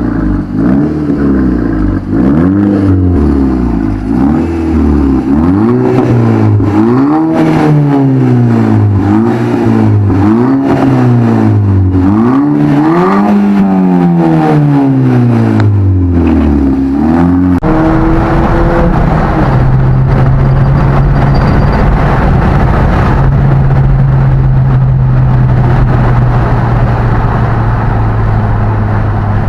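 Skoda Octavia vRS's 2.0 TFSI turbocharged four-cylinder, breathing through a 3-inch decat downpipe and a 2.5-inch custom rear exhaust, revving up and falling back about nine times in a row. About eighteen seconds in, it settles into a steady drone with a rushing noise over it.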